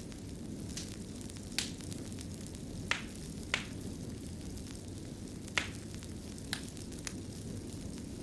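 Wood fire burning in a stone fireplace: a steady low rumble of the flames with scattered sharp crackles and pops, about eight in all, the loudest a little past halfway.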